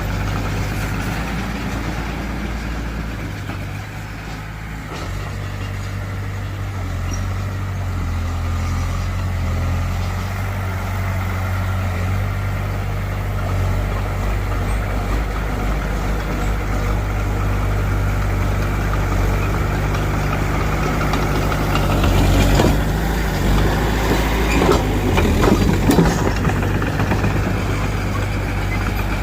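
Heavy diesel engine of earthmoving machinery running, its pitch stepping up and down with load and throttle. A cluster of sharp knocks and clanks comes about three quarters of the way in.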